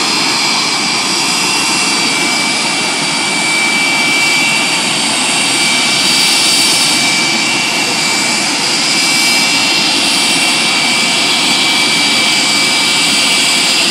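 Pratt & Whitney JT8D low-bypass turbofan jet engine running steadily on a ground test run after being reassembled: a loud, unbroken roar with a high-pitched whine held at one pitch.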